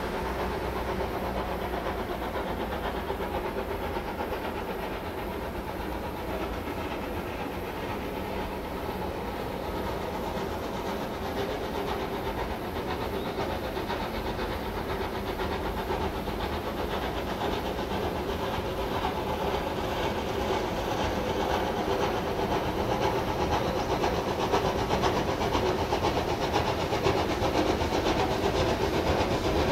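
Double-headed narrow-gauge steam train, Garratt G42 and tank engine 14A, working along the line with hissing steam, growing louder toward the end as it approaches.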